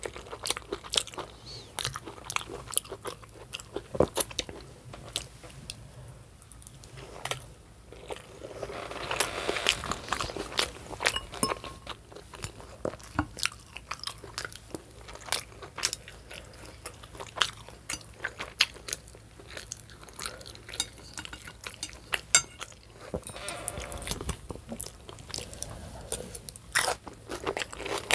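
Close-miked chewing and crunching as a person eats stuffed bell pepper and a lettuce, cucumber and onion salad, with many small wet mouth clicks and a couple of longer crunchy stretches.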